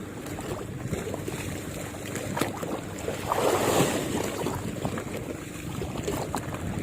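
Wind buffeting the microphone over waves lapping, with a louder surge about three and a half seconds in and scattered small clicks.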